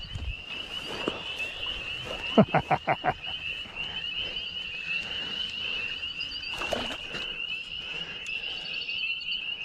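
Pond frogs calling in chorus, a steady, rapidly pulsing high trill, with a quick run of four lower calls about two and a half seconds in.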